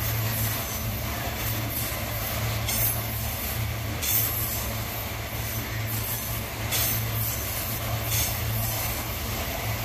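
Loaded iron-ore gondola wagons of a freight train rolling slowly past, steel wheels giving a few sharp clacks over the rail joints, over a steady low hum.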